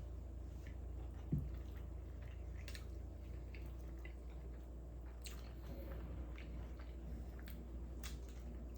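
A person chewing food close to the microphone: faint wet smacks and clicks over a steady low hum, with one soft thump about a second and a half in.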